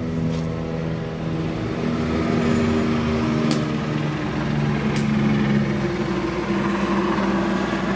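2005 Honda Civic Hybrid's 1.3-litre four-cylinder engine running at a raised idle of about 2000 rpm, heard from inside the cabin, still cold and warming up. Its pitch rises slightly about two seconds in, with a few faint clicks.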